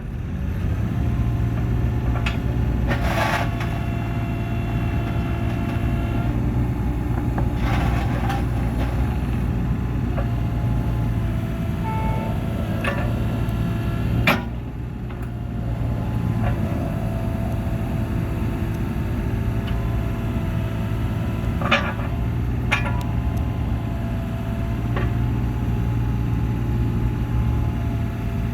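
2022 Cat 303 CR mini excavator's diesel engine running steadily, with a whine that comes and goes and occasional sharp clanks, the loudest about halfway through.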